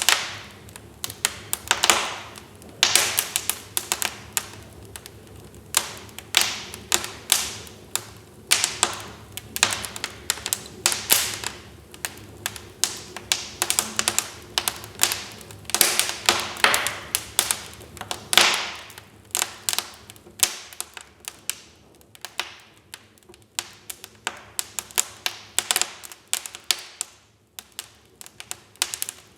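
Wood fire crackling in a fireplace: irregular sharp pops and snaps in quick clusters, thinning out about two-thirds of the way through.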